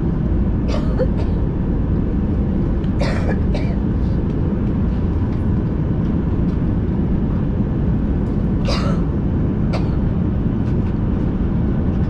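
Steady low rumble of a Boeing 737-800's cabin on the ground after landing, with three brief sharp sounds about a second, three seconds and nine seconds in.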